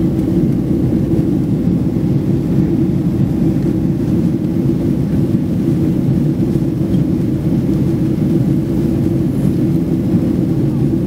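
Steady cabin noise inside a jet airliner in flight: the engines and the air rushing past the fuselage make an even, loud, low noise that does not change.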